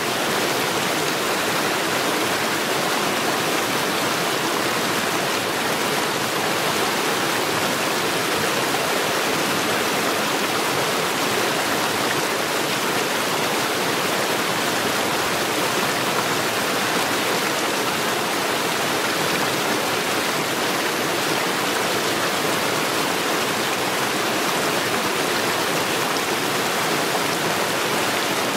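Mountain stream rushing steadily over stones, an even splashing rush with no pauses.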